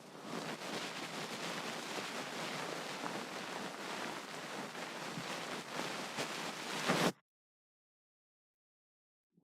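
Close ear-cleaning sounds: continuous scratching and rubbing with many fine crackles, as from an ear pick working inside an ear on the microphone. It cuts off suddenly after about seven seconds.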